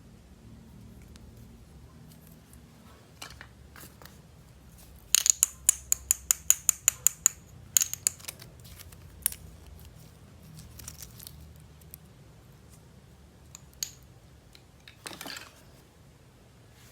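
Hands handling small hard plastic toy pieces and packaging, giving a quick run of about a dozen sharp clicks, roughly five a second, followed by scattered single clicks and a short rustle.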